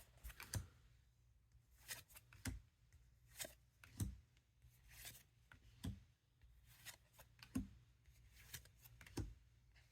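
Trading cards being flipped through one at a time, making faint, short card slides and snaps about once a second.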